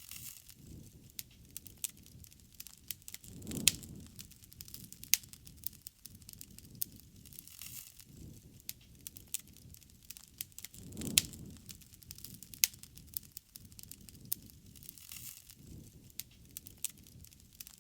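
Wood fire crackling, with irregular sharp pops and snaps over a soft low rush of flame that swells every few seconds. A few pops stand out louder than the rest.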